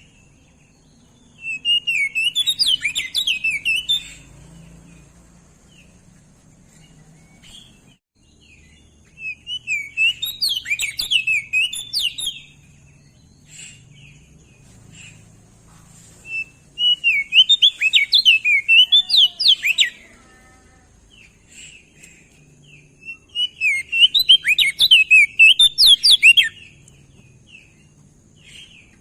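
Crested white-eye (opior jambul) singing: four bursts of rapid, high twittering song, each about three seconds long, with pauses of a few seconds between them.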